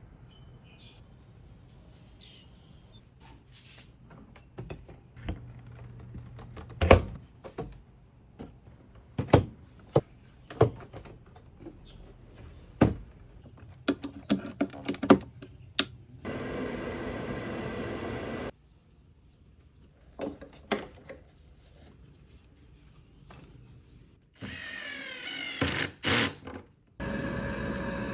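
Knocks and clunks of parts being handled and fitted, with a motor running steadily for about two seconds midway. Near the end an electric exhaust fan spins up with a rising whine, then runs steadily.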